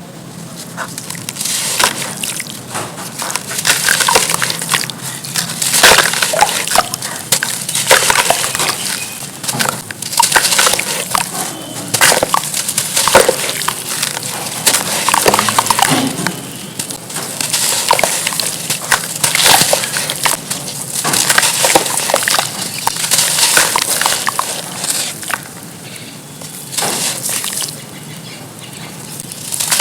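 Pure charcoal crumbling and crushing in water, a dense, crisp crackle and crunch that comes in waves and eases off briefly near the end.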